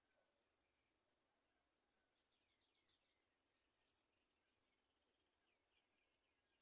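Faint, short high-pitched bird chirps repeating about once a second, with fainter downward-sliding calls between them; the loudest chirp comes about three seconds in.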